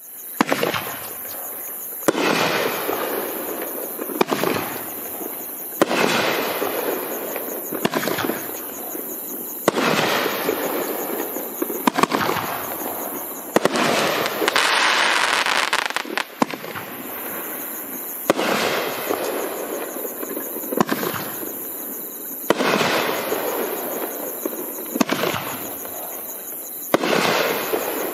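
Magnus 'Fearmonger' consumer fireworks cake firing shot after shot, about one every two seconds. Each sharp report is followed by a hissing, crackling tail from the burst's crackling halo rings.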